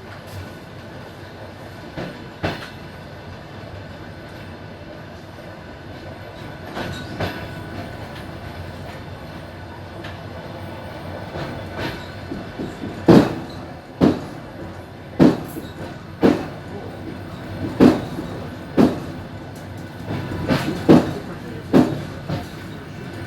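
Passenger train rolling on the rails with a steady rumble, its wheels clacking over rail joints. The knocks grow louder about halfway through and come roughly once a second, some in close pairs.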